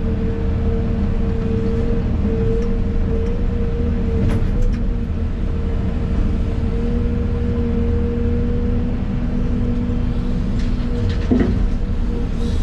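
Excavator engine and hydraulics running steadily, heard from inside the operator's cab: a constant low rumble with a steady whine. A few brief knocks sound about four seconds in and again near the end.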